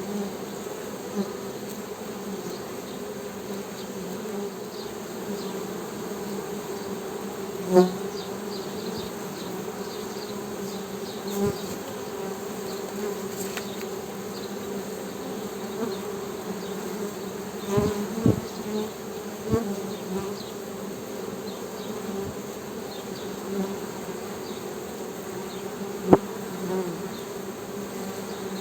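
Honey bees humming: a steady buzz with a low hum, broken by a few brief knocks, the loudest about a quarter of the way in and near the end.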